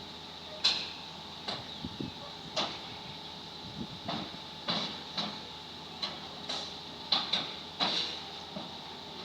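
Irregular sharp metallic clanks and knocks, about a dozen, each ringing briefly, over a steady background hum: an excavator's steel crawler tracks and the trailer's steel ramps knocking as the machine drives off the trailer.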